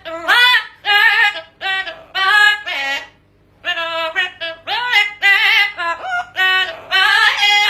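A parrot singing in a high, sing-song voice, a string of short gliding notes with a brief pause about three seconds in.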